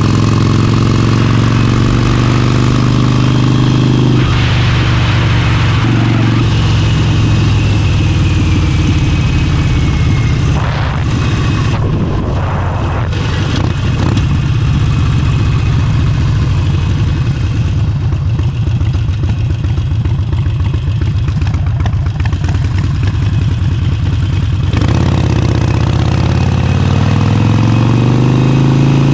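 Harley-Davidson Forty-Eight's air-cooled V-twin running through an aftermarket exhaust while riding. The engine note is steady for the first few seconds, turns rougher and noisier for a long stretch, then clears and rises in pitch near the end as the bike accelerates.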